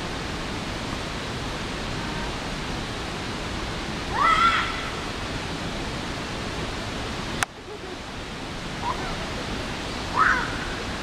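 Steady rushing noise of a waterfall. Two brief distant calls rise above it, about four seconds in and near the end, and a click with a short dip in level comes a little past halfway.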